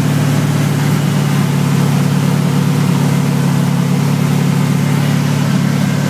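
383 stroker small-block V8 of a 1978 GMC pro street truck idling steadily, running smoothly.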